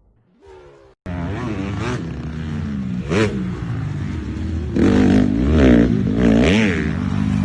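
Dirt bike engine running and revving, starting abruptly about a second in, with several throttle blips that rise and fall in pitch.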